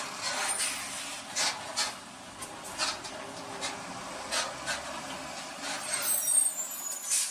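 Vehicle noise: a steady hiss with irregular sharp knocks and clicks, about ten of them, and a brief high whistle near the end.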